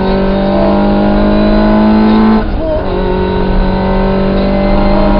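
Rally car engine running hard at high revs, with a short break about halfway through like a gear change before it pulls again.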